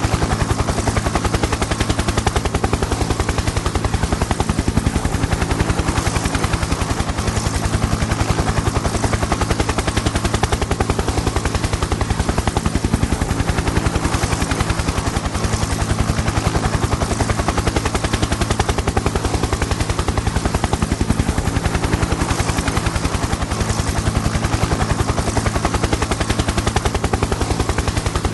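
Helicopter in flight: a steady, rapid beat of rotor blades over a constant low drone from the engine and drivetrain.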